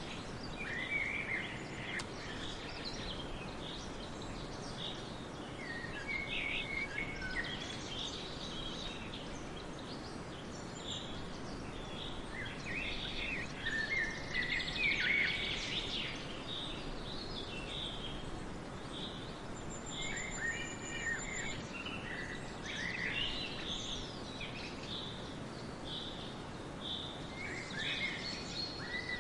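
Several songbirds singing and calling in short scattered phrases, with a high trill about two-thirds of the way through, over a steady background hiss of forest ambience.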